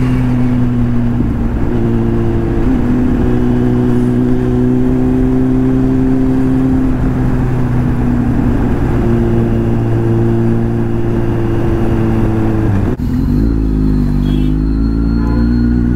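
Kawasaki Z800 inline-four engine running at a steady speed under a rush of wind. About thirteen seconds in, the wind noise drops away suddenly and the engine note dips, then climbs again as the bike pulls away.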